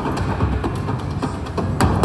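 Bao Bao Riches slot machine playing its bonus-round music with quick percussive clicks as the reels respin during the Hold and Spin feature, and a sharper knock near the end as a reel lands.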